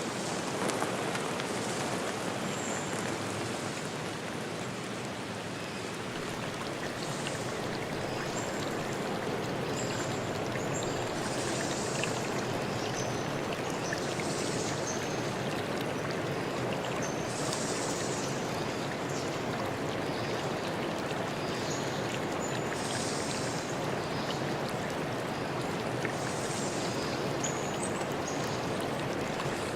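A stream running steadily, with short high chirps coming back every couple of seconds.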